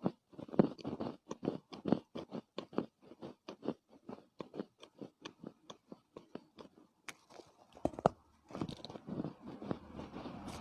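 Soft chunks of Chinese loess (dried clay earth) being chewed, a quick, even run of short soft crunches. About eight seconds in, one louder crunch gives way to a denser, continuous crumbling.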